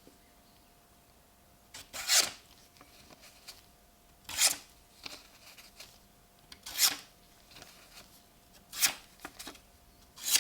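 The restored pocket knife's blade making five short slicing or scraping strokes, about two seconds apart.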